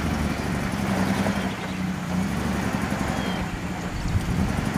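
Land Rover Series 3 engine running at fairly steady revs, the vehicle stuck in mud and being driven to free it while it is pushed from the front.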